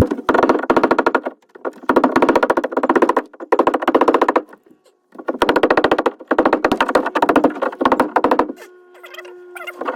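A power tool rapidly hammering and chipping in several bursts of one to two seconds, breaking out the boat's rotted wood deck core.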